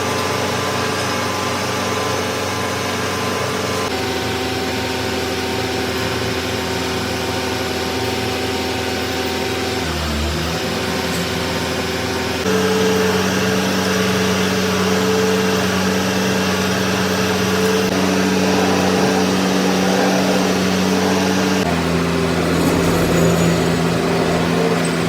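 Metalworking machine running steadily: a loud, even hum with several steady tones. The pitch and mix change abruptly several times.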